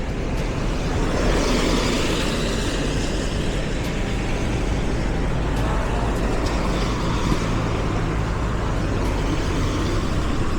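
City road traffic running past, a steady rush of noise that swells about a second in as a vehicle goes by.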